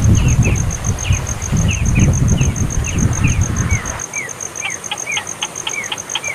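Baby bird chirping repeatedly, short falling chirps about two to three a second that turn quicker and sharper in the second half, as a nestling begging for food. A steady rapid high pulsing like a cricket runs behind it, and a low rumble drops away about four seconds in.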